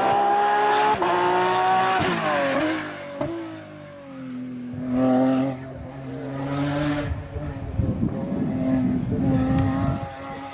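Porsche rally car engine revving hard with rising pitch for about two seconds, then the note drops sharply as the driver lifts or shifts. A lower, uneven engine note follows, with crackling near the end.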